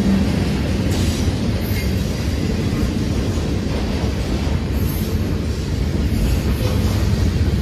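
Freight train cars rolling past at close range: a steady low rumble of steel wheels on rail, with a few faint clacks.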